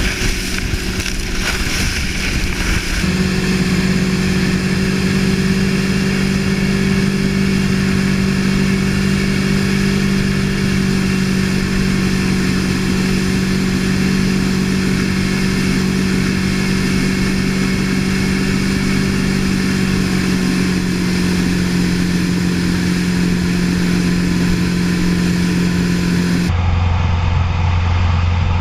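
Motorboat engine running steadily under power; about three seconds in its pitch climbs and then holds level. Near the end the sound changes abruptly to a lower, deeper engine hum.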